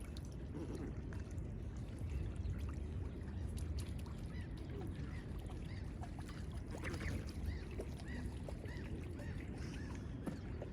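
Steady wash of river water with a low rumble underneath, and a run of about six short calls from waterfowl, about two a second, in the second half.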